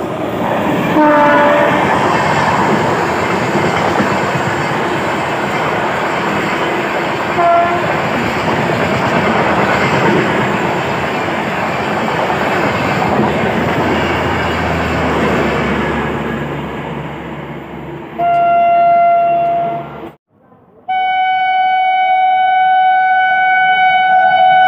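Indian Railways passenger train running through the station at speed, with a steady rumble and wheel clatter and two short horn toots early on. Near the end an electric locomotive's horn sounds: one blast, then after a brief break a long, steady blast as the next train approaches.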